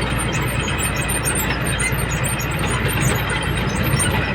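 A truck's diesel engine runs steadily with road noise while the truck drives along a highway, with faint high ticks over the steady rumble.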